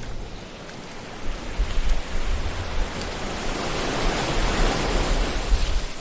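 Ocean waves washing on a shore: the rush of water swells to a peak about four to five seconds in and falls away near the end, over a low rumble.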